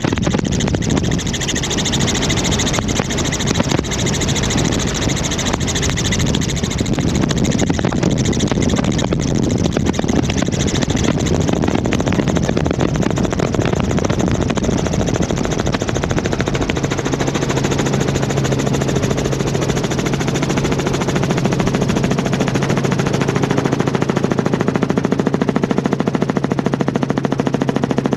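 Helicopter in flight, its rotor blades beating in a fast, even chop over the engine's running. A steady low hum comes in partway through.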